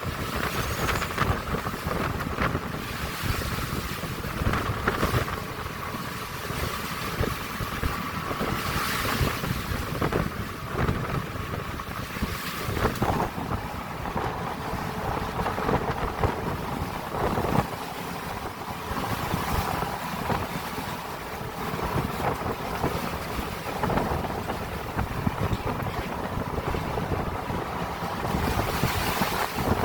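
Wind gusting across the microphone on a ship at sea in rough water, with waves washing against the hull.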